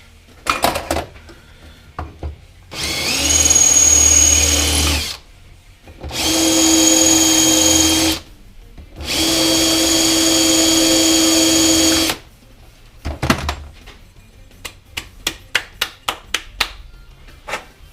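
Electric drill run three times in short bursts of two to three seconds each, with a steady whine that rises as it spins up on the first run. A string of light metallic clicks and taps follows near the end.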